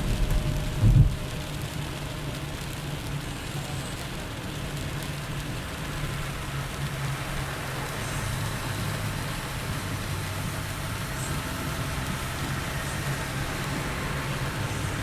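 Heavy rain falling steadily, over a low steady drone, with a short loud low thump about a second in.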